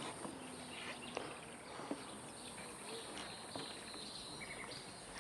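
Faint outdoor ambience with a few light clicks and short high-pitched chirps, like insects.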